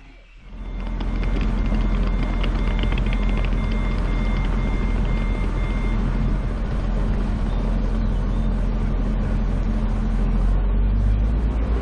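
Diesel engines of two coupled SA133 railcars running loud and steady as the train departs, starting abruptly. Intermittent high electronic beeping sounds over it for the first half.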